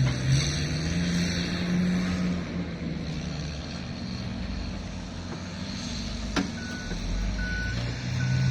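Vehicle engine running, its pitch rising and falling slightly. About two-thirds of the way in, a reversing alarm starts beeping, roughly one beep a second.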